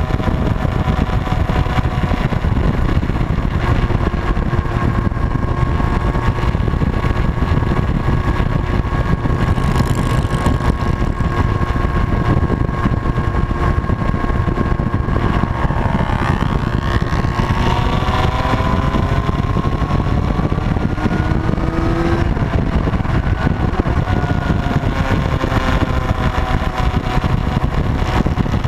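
Motorcycle engines running while riding, their pitch drifting up and down with throttle, over a heavy steady wind rumble on the microphone. A couple of brief louder swells mark vehicles passing.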